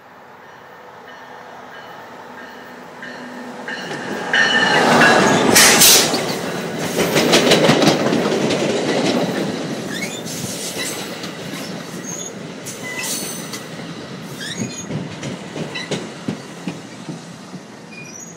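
NJ Transit multilevel commuter train passing close by on the adjacent track. Its rumble builds over the first few seconds to its loudest about four to eight seconds in, with clicks of wheels over the rail joints. It then rolls on, with short high wheel squeals through the second half.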